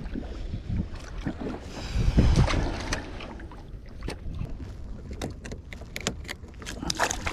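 Wind buffeting the microphone on a kayak, swelling louder about two seconds in, with many small clicks and knocks from gear handling through the rest, thickest near the end.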